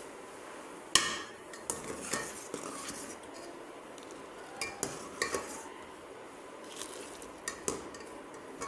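Cutlery clinking against cups and dishes, a sharp clink about a second in and several lighter clinks scattered after it.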